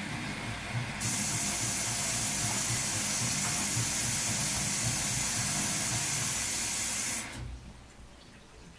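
Ardo washing machine running: a steady rush of water hisses through it, starting about a second in and cutting off abruptly about seven seconds in, over a low pulsing hum from the machine.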